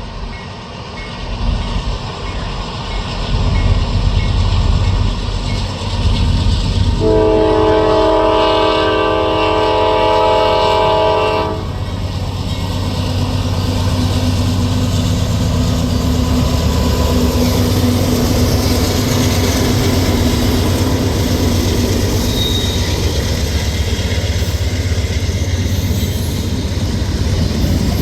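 Norfolk Southern freight train's diesel locomotives approaching and passing, their engine rumble building over the first few seconds. The horn sounds one long blast of about four and a half seconds, a quarter of the way in. Then comes the steady rumble and clatter of the freight cars rolling by on the rails.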